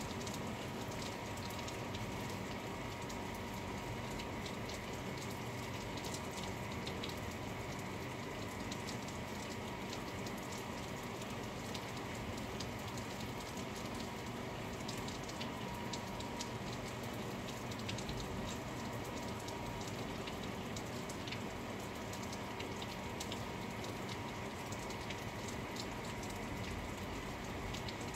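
Steady rain falling, with many small ticks of individual drops striking nearby surfaces throughout.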